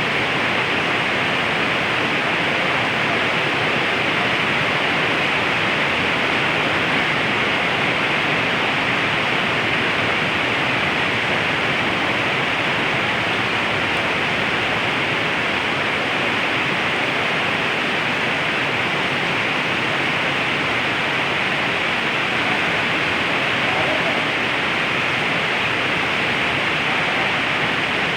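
Heavy rain pouring down: a steady, unbroken hiss.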